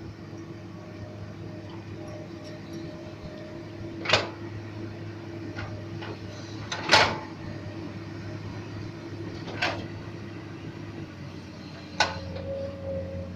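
Komatsu PC200 excavator's diesel engine running steadily, with four sharp knocks spaced a few seconds apart, the second the loudest. The engine note shifts after the last knock, near the end.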